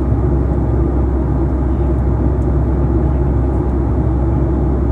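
Steady low rumble of a moving vehicle heard from inside its cabin, with no sudden changes.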